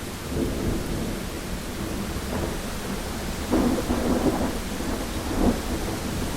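Heavy rain falling steadily on a window, with thunder rolling in several low swells; the loudest comes about halfway through, and a sharper crack peaks near the end.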